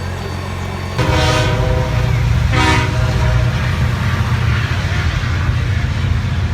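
Campagna T-Rex 16S's motorcycle-derived inline-six running, stepping up abruptly to a louder, rougher rumble about a second in and holding there. Two short, steady-pitched horn blasts sound over it, the first about a second in and the second about a second and a half later.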